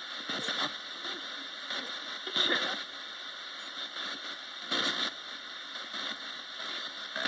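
Roberts radio used as a ghost box, giving steady static hiss broken by short louder bursts of noise and garbled fragments about every two and a half seconds.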